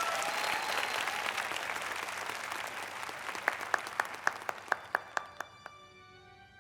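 Audience applause with a few whoops at first, dying away. About halfway through, a row of sharp clicks at about four a second, and faint held instrumental notes start near the end.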